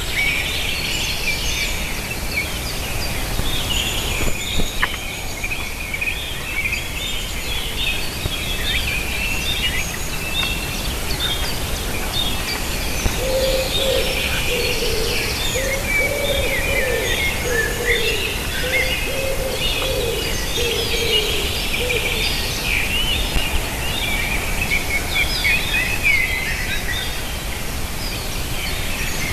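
Outdoor bird chorus: many small birds chirping and singing at once, overlapping and continuous, with a lower repeated call running in phrases through the middle. A steady low background noise lies underneath.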